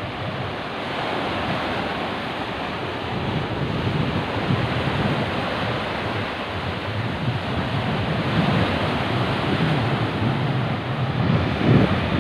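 Rough sea: waves surging and breaking, with wind buffeting the microphone in a steady rush.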